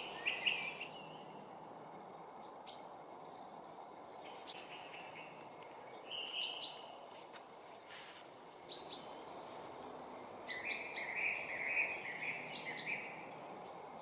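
Woodland birds calling: scattered short chirps throughout, with a brief warbling song phrase about ten seconds in, over a steady faint background hiss.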